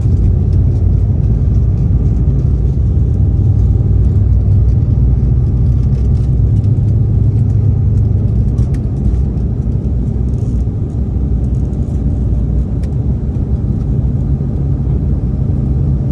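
Embraer E2 jet airliner's geared turbofan engines at takeoff power, a loud steady low rumble that eases slightly about halfway through.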